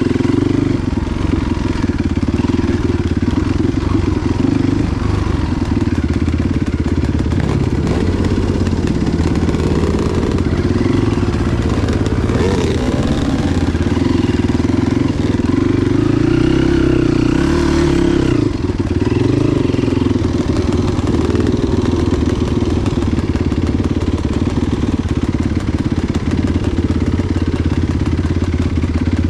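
Enduro motorcycle engine running steadily, with the revs rising and falling between about twelve and eighteen seconds in.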